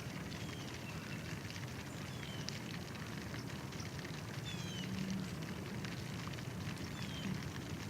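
A bird giving short, falling chirps, about one every second or two, over a steady crackling rustle and low hum.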